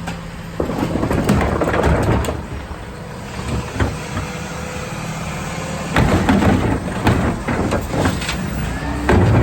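Garbage truck running on a collection route, its engine rumbling under irregular knocks and clatters from the pickup work, which grow louder about six seconds in.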